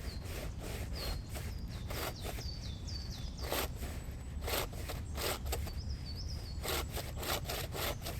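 Homemade bow saw being tried out on wood: uneven back-and-forth sawing strokes. The saw is a flimsy first attempt whose soft wooden side pieces give under the load.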